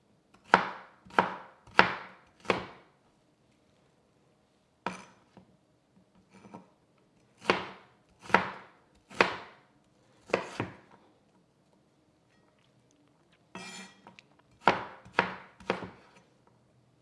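Knife chopping food on a cutting board: separate, unevenly spaced strikes in small groups of three to five, with a brief scrape near the end.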